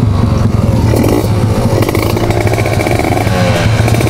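Kawasaki Ninja RR 150's two-stroke engine running loud, its revs rising and falling several times over a steady low hum.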